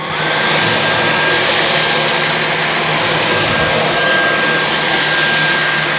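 Dyson V15s Detect cordless stick vacuum's motor stepping up into boost mode: the whine jumps higher and louder right at the start, then runs steady at full power while vacuuming a hard floor with the hardwood floor head.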